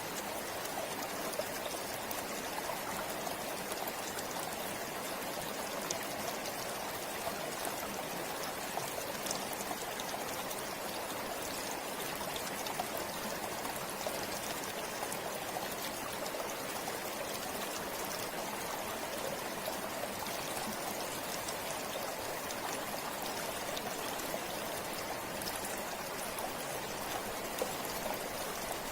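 River water flowing steadily over rocks, a continuous rushing with fine splashing and trickling.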